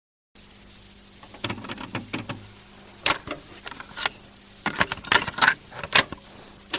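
A string of sharp, irregular clicks and taps over a faint hiss and a low steady hum, starting about a third of a second in.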